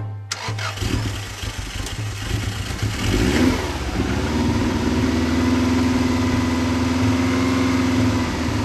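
Subaru Impreza WRX GC8's EJ20 flat-four starting up after sitting for about six months, running unevenly at first, revving up about three seconds in, then settling into a steady fast idle.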